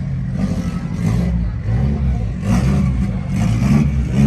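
A car engine running steadily with a low, uneven hum.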